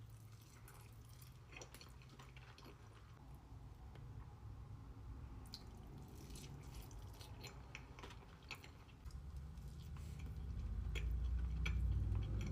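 Close-miked chewing and biting of sushi, with many short wet clicks and crunches from the mouth. A low rumble grows louder in the last few seconds.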